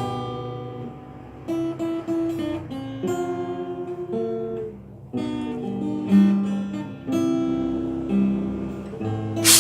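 Solo acoustic guitar played fingerstyle: plucked melody notes over bass notes, with a sharp strummed chord near the end.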